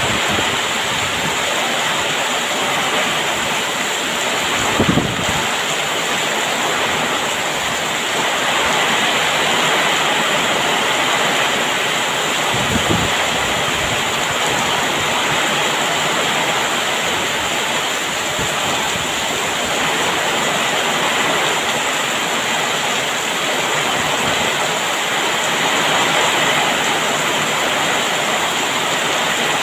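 Heavy rain falling, a loud steady hiss with brief low knocks about five seconds in and again around thirteen seconds.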